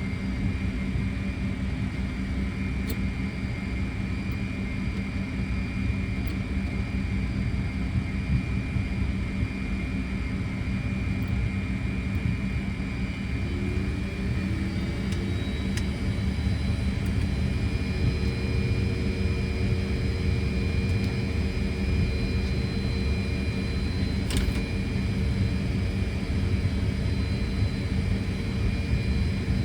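Steady cockpit noise of a Fokker 100 taxiing, with its Rolls-Royce Tay turbofans at low thrust: a constant low rumble with a steady hum and a thin high whine. About halfway in, a few more steady tones join, one of them a higher whine.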